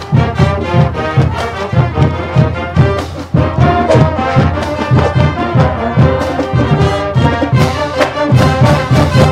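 Brass band music: trombones and trumpets over a steady drum beat, marching-band style, accompanying a colour-guard routine.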